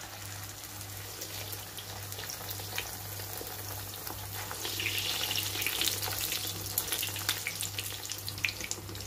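Pişi, Turkish yeast-dough flatbreads, deep-frying in a pan of hot oil: a steady sizzle with many small crackles and pops, growing louder about five seconds in.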